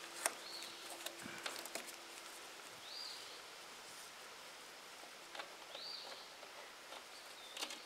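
Quiet outdoor ambience with a bird giving a short, high, arched chirp about every three seconds, four times in all. A few light clicks come from nuts being fitted onto the go-kart's seat bolts.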